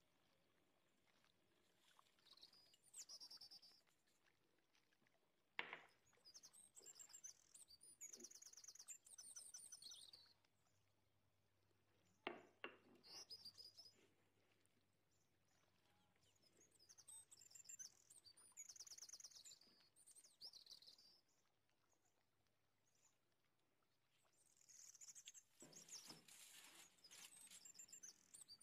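Faint bird chirping and trilling in bouts of a few seconds, with two sharp knocks in between.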